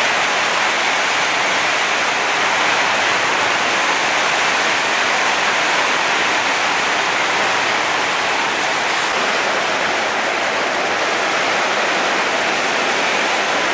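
Heavy tropical downpour: a loud, steady hiss of rain that does not let up.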